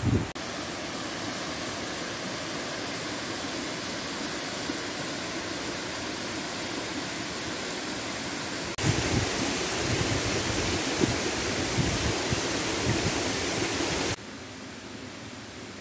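Grande Chute du Galion waterfall: a steady rush of falling water. About nine seconds in it gets suddenly louder and closer, with irregular low rumbles, then drops back to a quieter rush about five seconds later.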